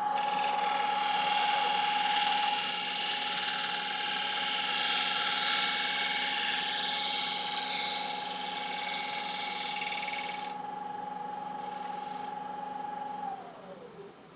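Wood lathe running with a steady motor whine while a freshly burred scraper takes a light shear scrape on the spinning Iroko platter, a hissing scrape lasting about ten seconds. The cut then stops, and near the end the lathe is switched off and its whine falls as it spins down.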